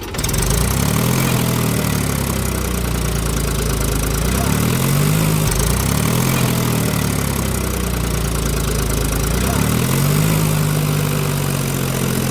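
Tractor engine running and revving up four times, each rev rising in pitch and then holding steady.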